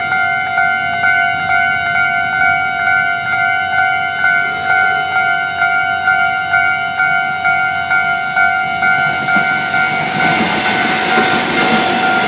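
Level-crossing warning bell ringing, a steady ding repeating about twice a second. From about ten seconds in, the rising noise of a train reaching the crossing builds underneath it.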